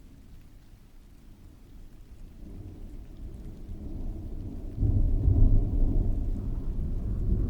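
Rolling thunder over rain: a low rumble swells from about a third of the way in, grows suddenly louder about two-thirds in, and keeps rumbling to the end.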